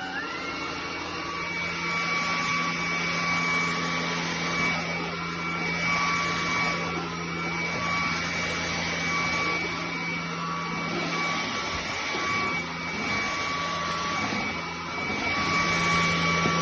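ElecKeys K10 cordless stick vacuum running, a steady rushing suction noise with a high motor whine. The loudness swells and dips as it works, louder again near the end.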